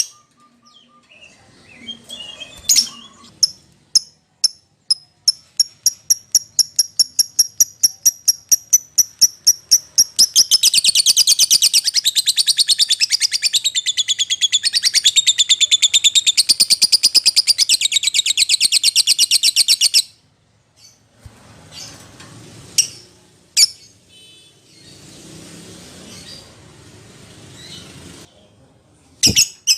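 Lovebird calling: a run of short, sharp, high chirps about five a second, growing louder over several seconds, then breaking into a dense, fast chattering trill for about ten seconds that stops abruptly. A few single sharp chirps follow over fainter background noise.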